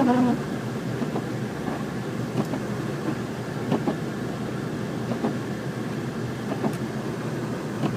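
Car cabin noise while driving: steady road and tyre rumble, with scattered light knocks.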